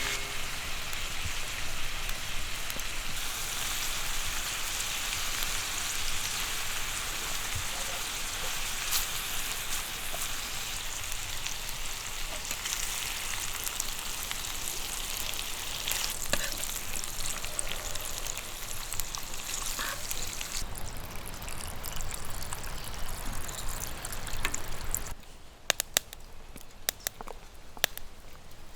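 Food frying in a pan: a steady sizzle with occasional pops. Near the end the sizzle stops abruptly, leaving a few sharp clicks.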